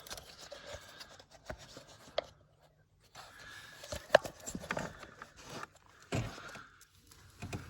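Hands working a gear-change cable end free of its mounting: scattered plastic and metal clicks with rubbing and scraping, a sharp click about four seconds in and a thump about six seconds in.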